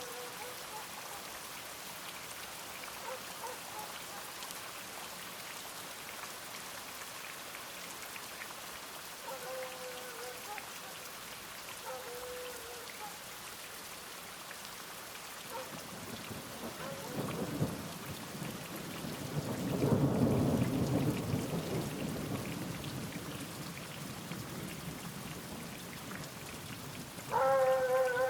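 Steady rain falling, with a long rolling rumble of thunder that builds about halfway through, peaks and fades away over several seconds. Near the end a short, loud pitched call cuts in over the rain.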